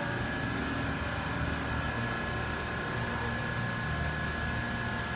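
Electric Yale AC turret truck forklift running: a steady low hum with a thin, constant high whine over it.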